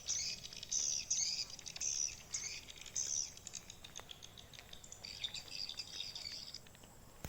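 Swiftlets twittering, a rapid series of high chirps that is loudest for the first few seconds, then thins out and stops shortly before the end.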